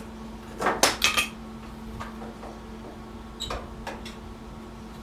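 Steel repair panel and a drum-brake adjusting tool knocking and clinking as the panel is levered into place on a car's lower radiator support. A quick cluster of sharp metal knocks comes about a second in, then a few lighter taps, over a steady low hum.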